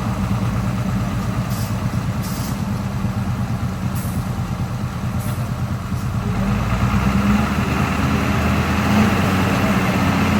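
Truck engine running at idle, a steady low drone that grows louder and fuller about six seconds in.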